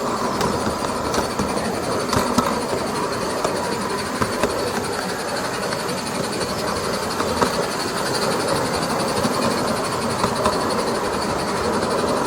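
SM32 garden-railway goods train running on its track: a steady running rumble and hiss, with irregular sharp clicks from the wheels over the rail joints.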